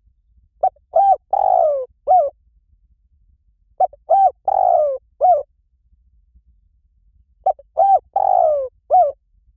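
Spotted dove cooing, the lure call used to draw the bird in: three phrases of four coos each, the third coo in each phrase longer and falling in pitch.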